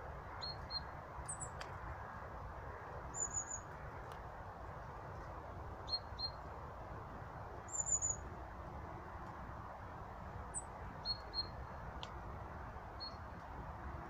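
Small wild birds calling: short high notes, often in quick pairs, and two brief higher trills, scattered every few seconds over a steady low background hiss.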